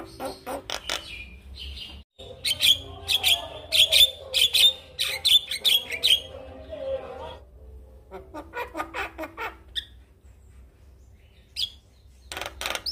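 Male Javan myna (jalak kebo) singing in rapid runs of short, harsh, clicking notes. The song is loudest in the middle, breaks off briefly about two seconds in, and thins to a few scattered notes near the end.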